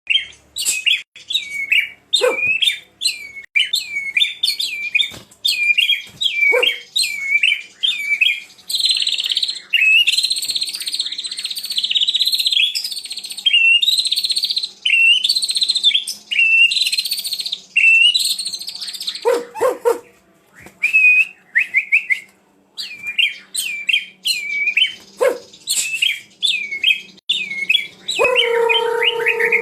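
White-rumped shama (murai batu) singing a long, loud song of quick repeated whistled phrases, with harsher chattering passages through the middle. A lower drawn-out sound joins near the end.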